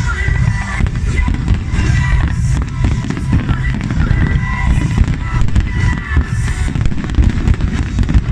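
Fireworks display going off continuously, a dense run of bangs and crackles without a pause, with music playing over it.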